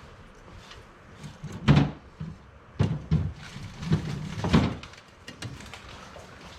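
A handful of dull clunks and knocks from tools and metal parts being handled against the UTV's suspension, the loudest less than two seconds in and four more spread over the next three seconds.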